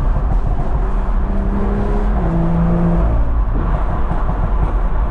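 Car on the move at road speed, heard from inside: the engine drone sits over heavy road and wind noise, and its pitch steps down about two seconds in. The car is a BMW M340i with the B58 turbocharged inline-six.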